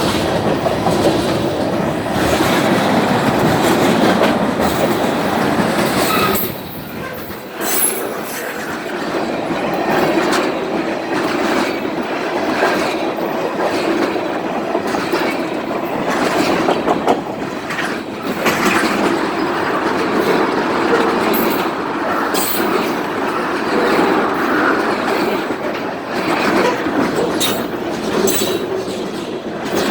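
A long train rolling steadily past, its railcar wheels clattering over the rail joints in a continuous clickety-clack with occasional wheel squeal.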